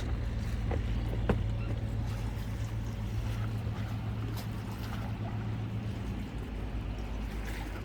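Fishing boat's engine droning steadily. Its low hum drops away about six seconds in.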